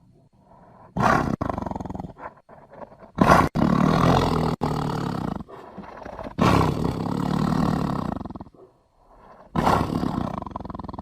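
Tiger growling and roaring in four separate bursts. The first, about a second in, is short. The others last about two seconds each, with brief pauses between them.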